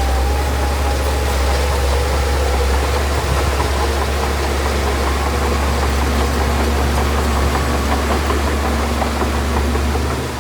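Heavy diesel engine of earthmoving machinery running steadily with a deep low rumble and a faint steady whine above it.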